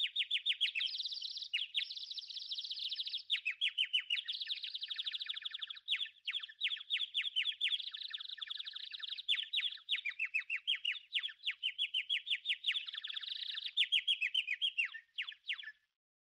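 Birds chirping: a dense, continuous stream of short, high, rapid chirps and trills from more than one bird. It stops abruptly near the end.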